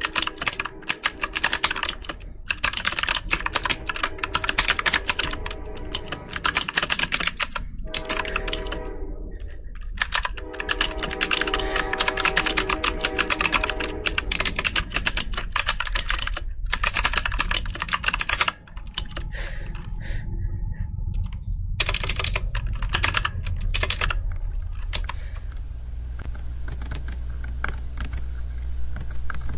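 Computer keyboard being typed on quickly: a dense, fast run of key clicks broken by short pauses. In the last several seconds the clicking thins out and a low steady rumble rises beneath it.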